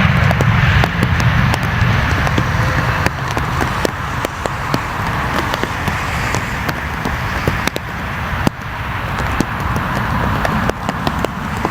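Raindrops hitting close to the microphone in irregular sharp taps, over a steady rain hiss. A low aircraft-engine rumble fades out over the first part.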